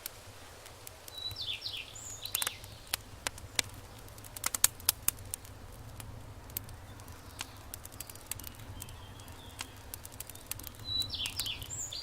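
Wood campfire crackling with scattered sharp pops. Twice, about a second in and again near the end, a short burst of quick falling chirps from a bird or other small animal.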